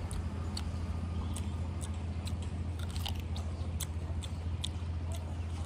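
Close-miked chewing, with many short crisp clicks and crunches at an irregular pace, over a steady low hum.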